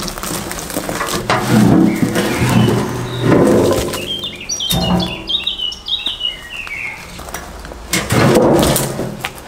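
A small songbird sings a quick run of high chirps stepping down in pitch, from about four to seven seconds in, over steady background music and a few knocks.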